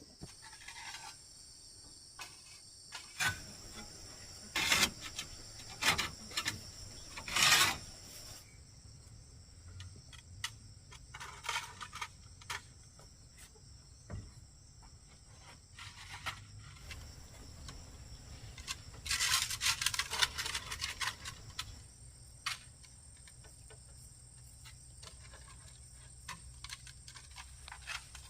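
Insects chirring in a steady high drone, with irregular scraping and rubbing noises over it: a cluster of louder scrapes a few seconds in, and a longer rasping stretch past the middle.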